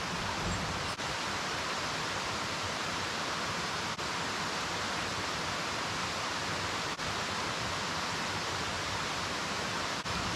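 Waterfall water rushing as a steady, even roar, with short breaks about every three seconds.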